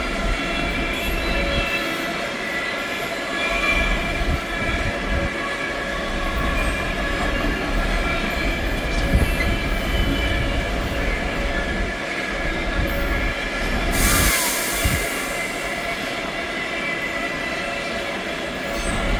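Train running through the station: a low rumble under several steady high whining tones, with a short burst of hiss about fourteen seconds in.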